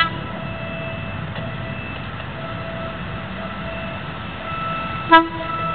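Diesel multiple unit train approaching along the track: a steady engine and running noise with a faint high tone that comes and goes. A short, loud, sharp sound comes about five seconds in.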